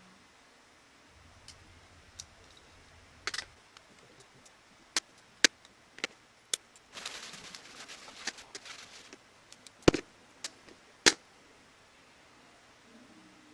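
Sharp clicks and taps of small hard parts and tools being handled, about a dozen scattered strikes, with a couple of seconds of denser rattling about seven seconds in.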